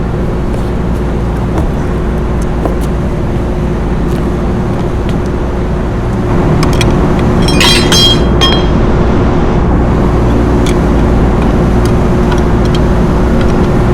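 Steady low drone of running rooftop machinery with a constant hum. About seven to eight seconds in comes a short cluster of light metallic clicks and clinks as the sheet-metal electrical box cover and its screws are handled.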